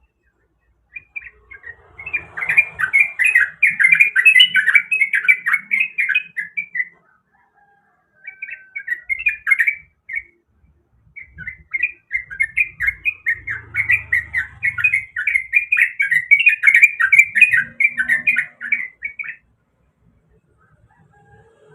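Yellow-vented bulbul (trucukan) singing loudly: fast, bubbling runs of chattering notes in two long phrases, the first from about a second in and the second from about eleven seconds in, with a few short bursts in the gap.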